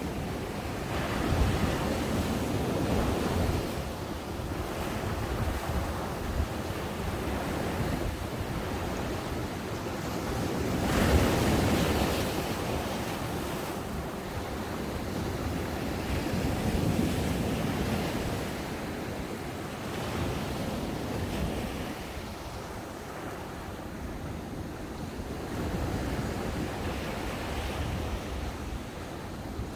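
Ocean waves breaking on a sandy beach and washing up the shore, the surf swelling and ebbing several times, with the biggest wave breaking about eleven seconds in. Some wind noise buffets the microphone.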